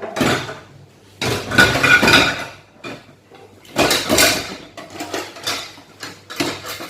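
Plates and cutlery clattering and clinking in irregular bursts as a small child handles and washes dishes.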